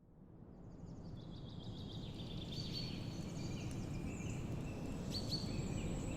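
Several small birds chirping, trilling and whistling over a steady low rush of ambient noise, fading in at the start.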